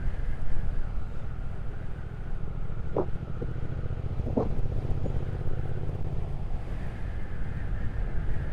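Triumph Speed Twin 1200's parallel-twin engine running at a steady cruise, with wind rushing over the rider's microphone. Two short rising squeaks come about three and four and a half seconds in.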